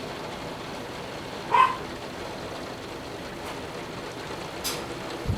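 Torrential rain pouring down steadily, overwhelming the house gutters. About a second and a half in, a single short, sharp pitched sound stands out above it.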